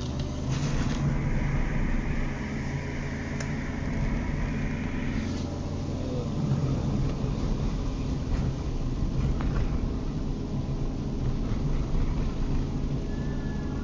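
Car running on a wet road, heard from inside the cabin: a steady low engine and road rumble. A hiss sits over it from about a second in, stopping suddenly a little past five seconds.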